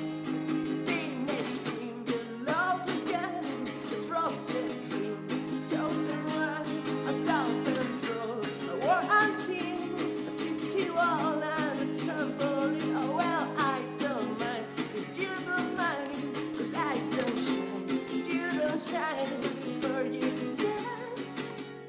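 A singer's voice over a strummed acoustic guitar, with steady chords and regular strums under a wavering sung melody.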